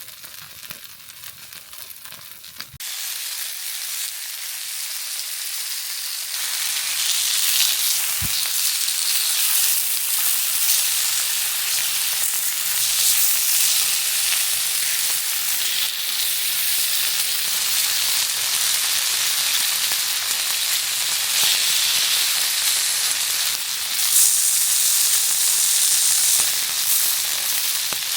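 Pork frying in a pan with a steady sizzle. It starts with a click about three seconds in and grows louder a few seconds later as the pan gets going.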